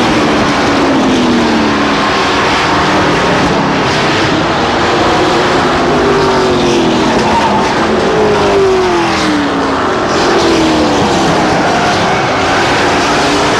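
Engines of racing trucks running at speed around a short oval track. Several times the pitch drops as trucks go by.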